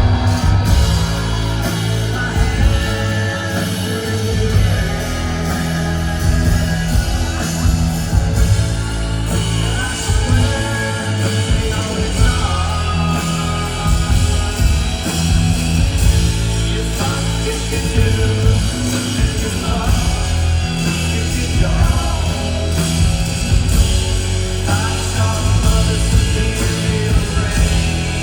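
Live rock band playing loudly.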